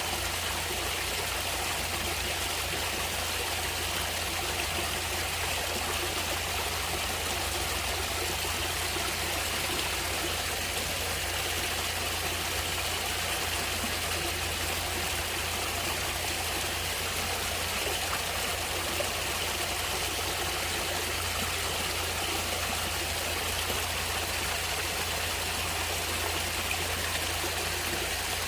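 Natural stream water running, a steady even rush and trickle that does not change.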